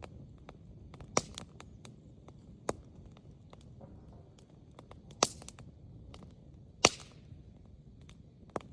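Wood fire crackling: many small ticks and five sharp pops, the loudest just over a second in, about five seconds in and near seven seconds, over a low steady rumble.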